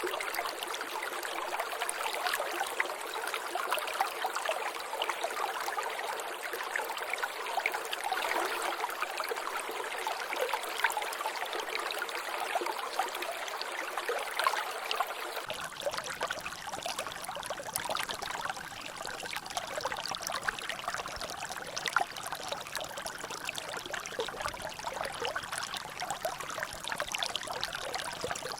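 Water trickling and dripping steadily, a dense patter of falling drops splashing in a small natural drainage. About halfway through the sound abruptly turns fuller and deeper.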